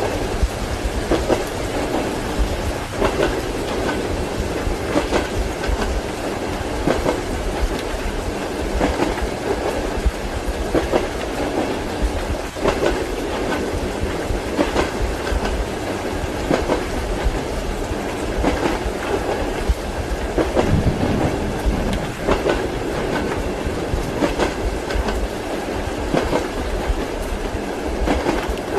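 Passenger train running over rail joints, heard from inside the compartment: a steady rumble with clickety-clack knocks of the wheels recurring about every two seconds.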